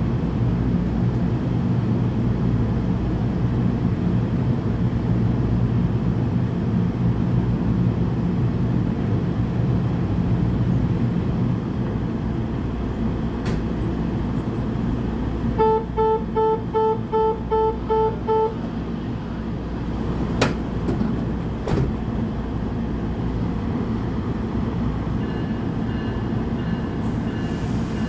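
A standing NJ Transit Bombardier bilevel train hums steadily. About halfway in, its door-closing chime gives eight quick, even beeps while the doors shut. Two sharp knocks follow about a second apart.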